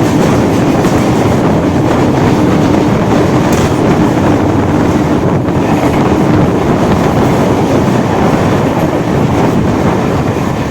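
Suburban electric local train running at speed, heard on board: a loud, steady rumble of wheels on rail with a humming tone that fades out about six seconds in, and a few faint rail clicks.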